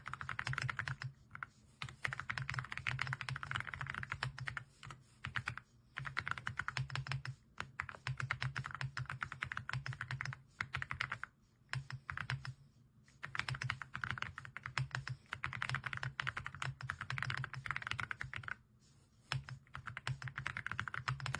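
AULA F99 mechanical keyboard with pre-lubed linear switches being typed on quickly, in runs of a few seconds broken by short pauses.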